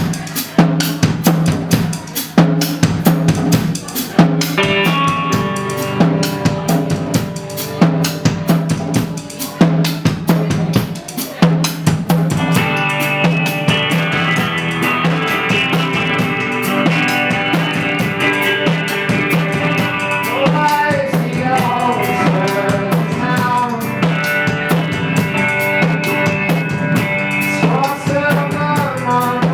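A rock band playing live, led by a drum kit. Pitched instruments join about four seconds in, and the full band fills out about twelve seconds in.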